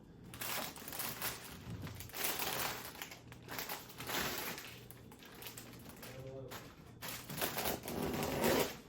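Crinkling of a flower bouquet's wrapping being handled, in several separate rustling bursts.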